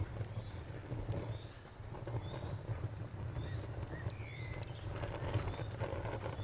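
Crickets chirping steadily, about four chirps a second, over frogs croaking low and a campfire crackling with scattered small pops.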